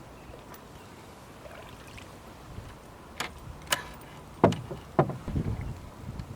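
Canoe on calm water with a low wash, then four sharp knocks on the canoe's hull starting about three seconds in. The last two are louder and hollower.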